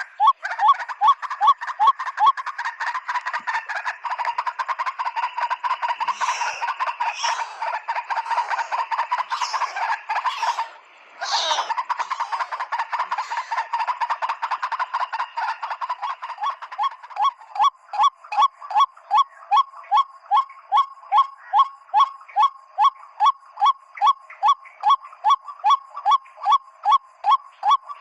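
Repeated 'ruak-ruak' calls of the white-breasted waterhen. A dense, overlapping run of calls breaks off briefly near the middle, then settles into evenly spaced notes about two a second.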